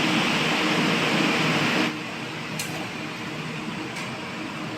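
Steady fan noise, an even hiss that drops to a quieter level about two seconds in, with a couple of faint clicks afterwards.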